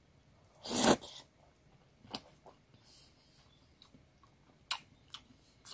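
A person chewing a hand-fed mouthful of rice and chicken curry. A short rustling burst comes about a second in, then a few soft, scattered wet mouth clicks and smacks.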